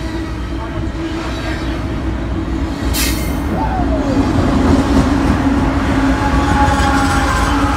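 Double-stack container freight train rolling past close by, its wheels rumbling on the rails with a steady squeal, and a sharp click about three seconds in. It grows louder from about five seconds in as a BNSF diesel locomotive in the train comes by.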